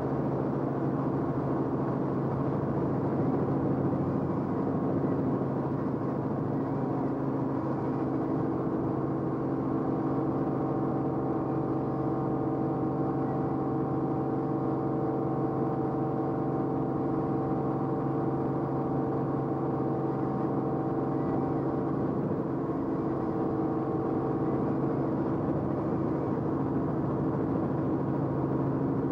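Steady engine drone of an aircraft, heard from inside the cabin: a constant hum with several fixed tones and no change in speed.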